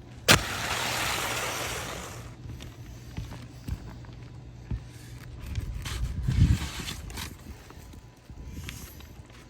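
A roof snake being worked under asphalt shingles: a sharp knock a moment in, then about two seconds of scraping, followed by scattered small knocks and handling noise.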